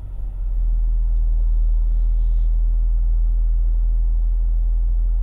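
Low, steady rumble of a car idling, heard inside its cabin while it stands still.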